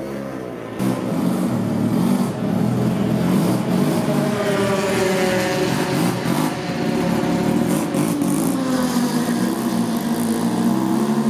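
Mazda R100 coupe race car's twin-rotor rotary engine running loudly as the car pulls away, its note sweeping down in pitch and then rising again near the end as it is revved.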